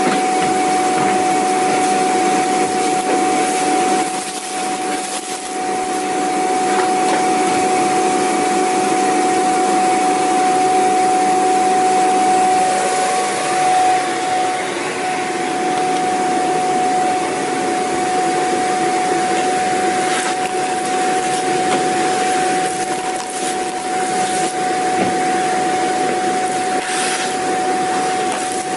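Vacuum cleaner running steadily: a rush of air with one constant high whine from the motor. The loudness dips briefly about four seconds in and again near the end.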